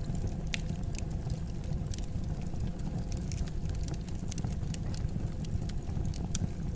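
Wood fire in a fireplace crackling: frequent irregular sharp pops and snaps over a steady low rumble of the burning flames.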